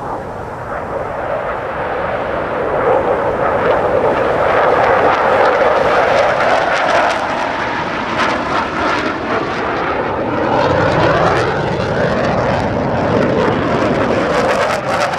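Fighter jet engine roar as the aircraft flies by, a loud continuous rush that swells over the first several seconds and stays strong, its pitch slowly shifting.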